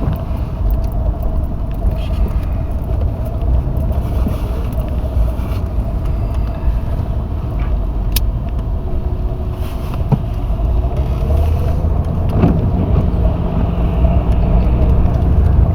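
Car driving slowly, heard from inside the cabin: a steady low rumble of engine and tyre noise with a faint steady hum and a few light clicks.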